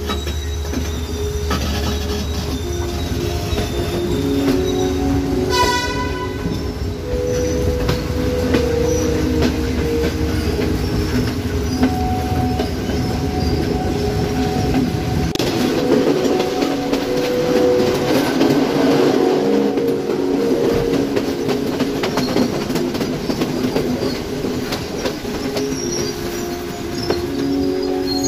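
Passenger train running, heard from a carriage window: a steady rumble of wheels on the rails with long held tones over it, and a brief high-pitched tone about six seconds in.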